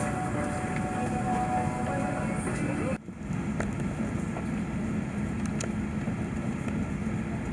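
Airliner cabin at the gate: a steady hum of cabin air with murmured passenger voices. The sound drops out sharply about three seconds in, an edit cut, and the hum then goes on with faint clicks.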